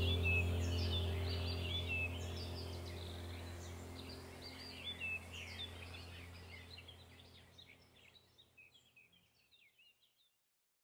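Small birds chirping over a low steady drone, the whole sound fading out evenly to silence about three-quarters of the way through.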